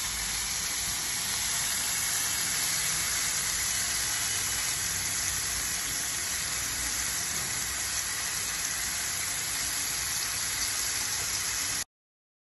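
Marinated paneer tikka cubes sizzling steadily in hot oil in a pan as they fry until their yogurt coating dries. The sizzle cuts off suddenly near the end.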